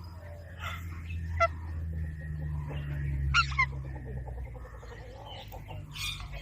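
Ringneck parrot making a few short calls. The loudest is a brief squawk falling in pitch about three seconds in, over a steady low hum.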